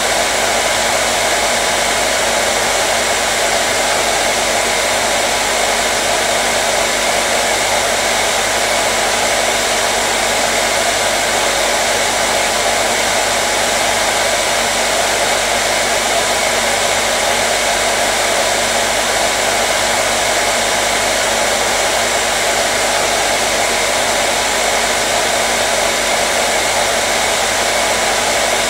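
Electric hair dryer running continuously: a steady, loud rush of blown air over a faint motor hum, with no change in pitch or level.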